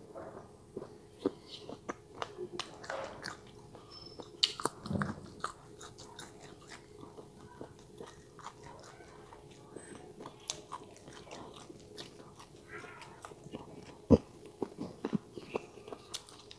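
Close-miked chewing of chicken gizzard with the mouth closed: irregular wet mouth clicks and soft crunches, with one sharper click near the end.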